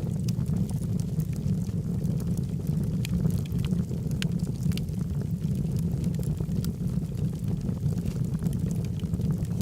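Logs burning in a fireplace: a steady low rumble from the fire with many scattered sharp crackles at irregular moments.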